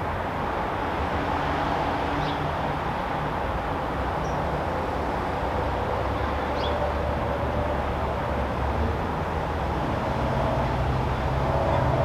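Steady backyard background noise: a constant low rumble and hiss that gets a little louder near the end, with three faint short high chirps.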